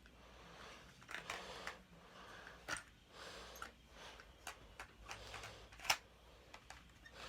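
Small scattered clicks and rattles of BBs and a magazine being handled while loading a metal BB pistol, the sharpest click about six seconds in.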